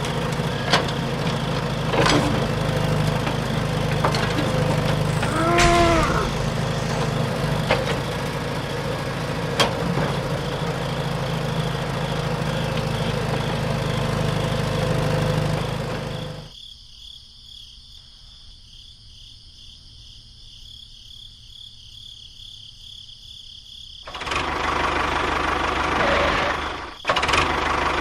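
A small motor running steadily. It drops away sharply about two-thirds of the way through and comes back loud near the end, with a short break just before the end.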